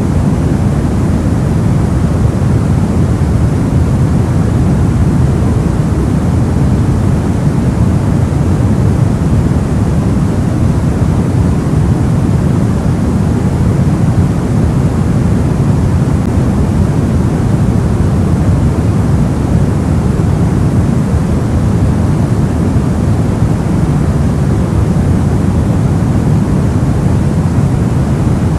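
Soft white noise for sleep: a steady, even hiss with most of its weight in the deep end, so it sounds like a low rushing rumble. It does not change at all.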